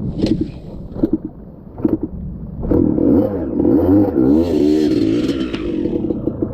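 Dirt bike engine: a few separate knocks about a second apart, then the engine catches about three seconds in, revs up and down, and settles into an even, pulsing low-rev run.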